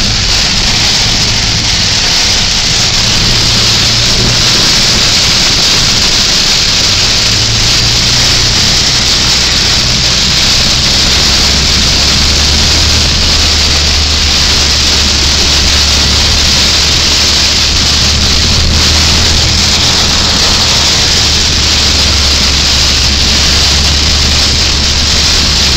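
Heavy rain pouring steadily onto a car on the freeway, over the low, even hum of the car's engine and tyres.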